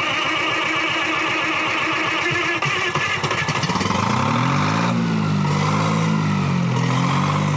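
Detroit Diesel 3-71 two-stroke three-cylinder diesel running just after a cold start, which the block heaters made possible without ether. About four seconds in it is throttled up, and its speed rises and then holds steady at a higher pitch.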